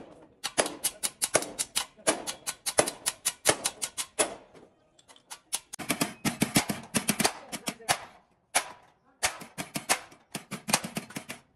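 Rapid sharp taps or knocks, several a second, in irregular runs with short pauses, like a hand tool striking a workpiece over and over.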